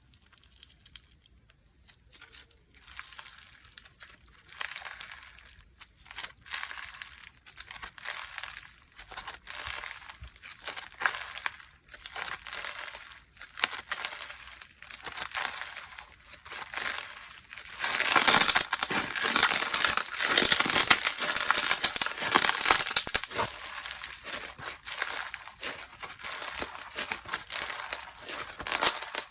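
Slime being squeezed and pressed by hand, making sticky crackling and popping sounds. It starts as separate squishes about once a second. About 18 seconds in it turns into louder, denser crackling.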